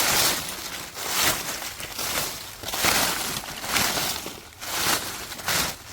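Dry leaf litter crunching and rustling in repeated swells about once a second, as it is trodden on or pushed aside.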